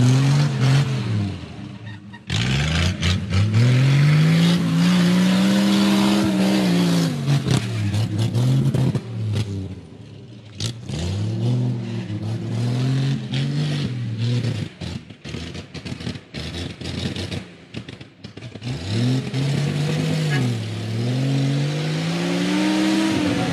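Offroad Jeep's engine revving hard as it climbs through the rutted dirt course, the pitch rising and falling in several long swells. Scattered clicks and knocks come through the middle stretch.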